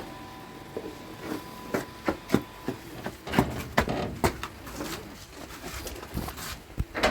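A run of irregular clicks and knocks, about a dozen spread over several seconds, with a louder burst of noise near the end.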